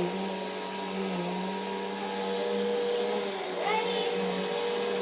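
Vacuum cleaner running steadily, a constant motor hum and whine with airflow hiss.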